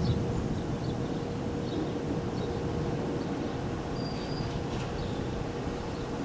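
Severe storm winds with heavy rain, a steady low roar, with a faint steady hum underneath and a few faint high squeaks.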